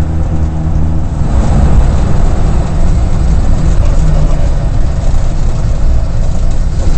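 Mitsubishi rally car's engine heard from inside the cabin, holding a steady note at first, then turning rougher and noisier from about a second in as the car drives on.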